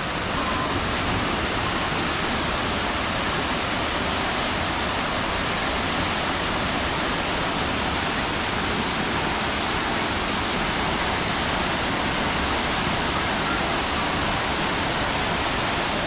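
Dry Falls waterfall heard up close: a loud, constant, even rush of falling water.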